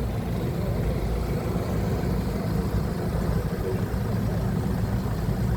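Forklift engine running steadily at low speed.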